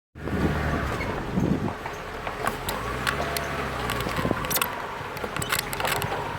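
A vehicle engine running steadily while driving along a rough road, with scattered sharp clicks and knocks throughout.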